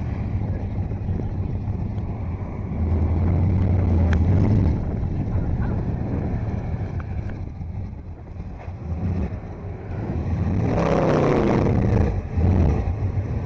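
Classic Ford Mustang fastback's engine revving hard during a reverse burnout, rising in a loud surge a few seconds in, easing off mid-way, then surging again with a rising pitch near the end.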